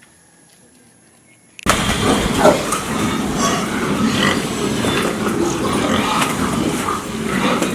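Quiet at first, then about a second and a half in a sudden cut to loud, dense animal noises with many short calls over one another.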